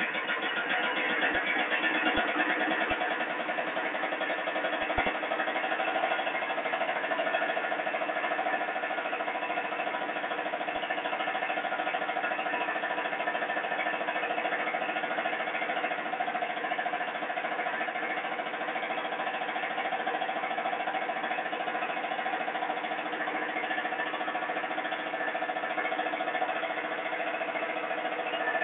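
Kubota 18 hp diesel engine running steadily, driving a three-phase generator.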